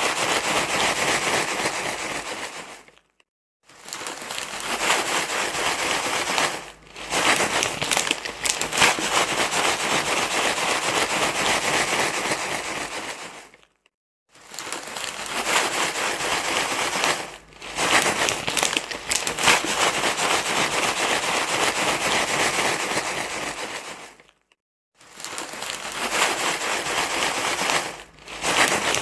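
Continuous crinkling, rustling noise with many small crackles, used as a baby-calming rustle sound. It breaks off briefly three times, about three seconds in, near the middle and about four-fifths of the way through, and dips more lightly between those breaks.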